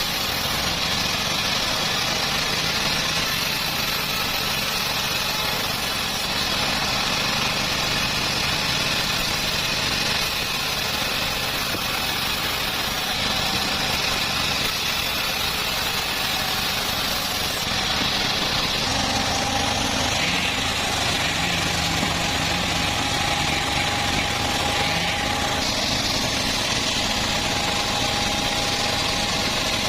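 Homemade bandsaw mill running steadily while sawing teak, an even engine-and-blade noise that shifts slightly in tone about two-thirds of the way through.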